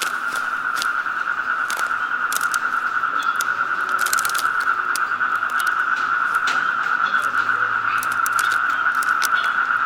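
Steady, high-pitched insect drone of a jungle at one constant pitch, with crisp crunching steps on dry leaf litter at an unhurried walking pace, roughly one a second.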